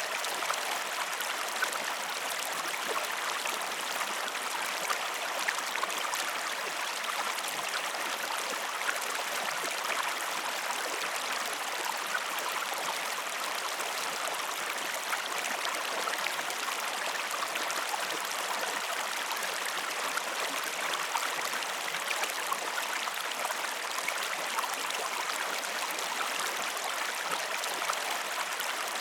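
Flowing stream water: a steady, even rush with small trickling ticks scattered through it.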